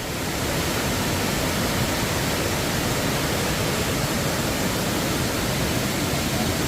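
Rushing water of a large rainy-season waterfall close by: a steady, dense hiss of falling water, a little louder after the first half second.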